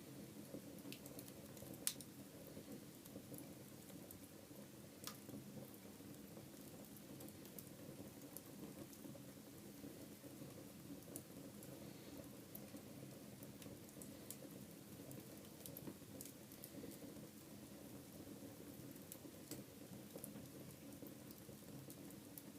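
Wood fire burning in a fireplace: a faint, steady low rush of flames with scattered sharp crackles and pops, the loudest about two seconds in.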